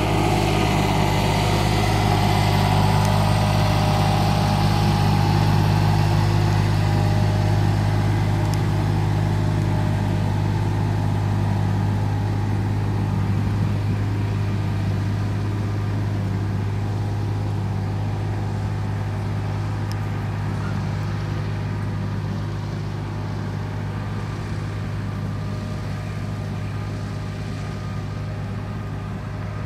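Mitsubishi bulldozer's diesel engine running at a steady, even speed with a low hum, slowly fading toward the end.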